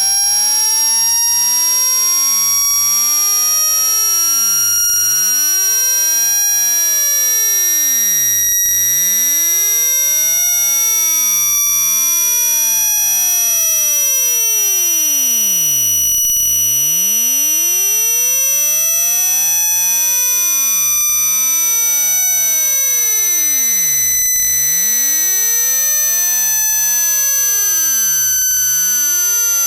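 Speaker-cleaning frequency sweep: a pure electronic tone slides slowly upward for about sixteen seconds, peaks, then slides back down, with many fainter crossing tones and a steady high whine above it. The sweep is played through a phone speaker to shake dust out of the speaker grille.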